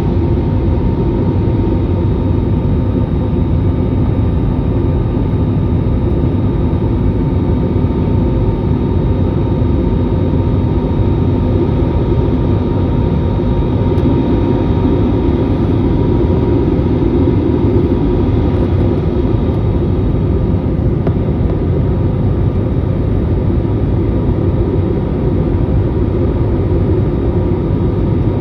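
Steady airliner cabin noise from the engines and rushing air during landing, a constant low rumble with faint steady whining tones.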